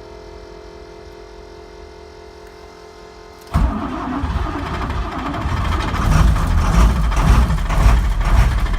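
A steady hum, then about three and a half seconds in a school bus engine cranks and fires roughly, running unevenly and getting louder before it cuts out near the end: a rough cold start that almost catches and dies.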